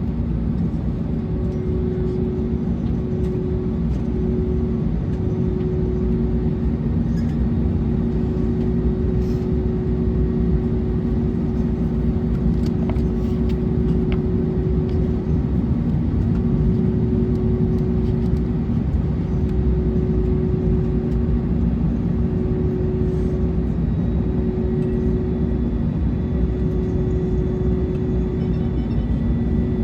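Steady cabin noise inside an Airbus A321neo taxiing after landing: the engines running at idle and the airflow make a constant rumble with two steady hum tones.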